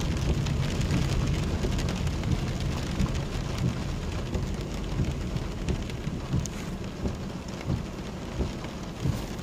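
Heavy rain on a moving vehicle, heard from inside, over a steady low rumble.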